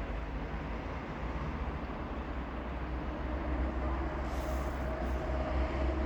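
A train hauled by a CFR Class 40 electric locomotive moving on the track, a steady low rumble that grows slightly louder. A steady whine comes in about four seconds in, and there is a short hiss just after.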